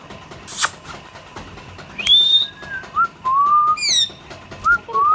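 Indian ringneck parrots whistling and calling: a string of short gliding whistles, some rising and one held longer, with a shrill high screech about half a second in.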